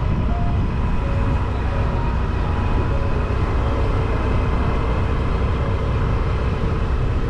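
Steady rumble of a moving road vehicle, with wind rumbling on the microphone.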